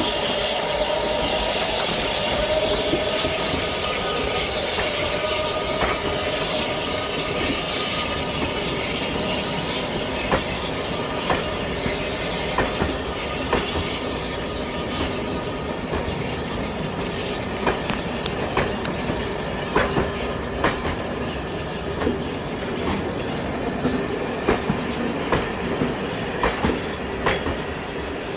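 A train running on track, its running noise steady. A squealing tone wavers in the first few seconds, then the wheels give sharp clicks over the rail joints, irregular, a few a second, through the rest.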